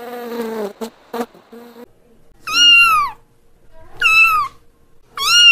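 Kittens meowing: three high-pitched meows about a second and a half apart, each rising and then falling away, the last one running on past the end. Before them, an insect's buzz stops under a second in.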